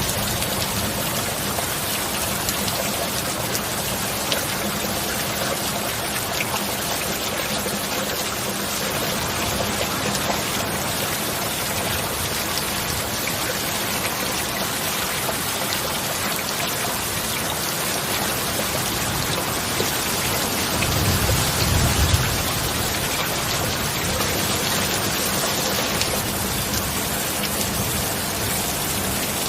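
Steady rain pouring down, with a brief low rumble swelling up about two-thirds of the way in.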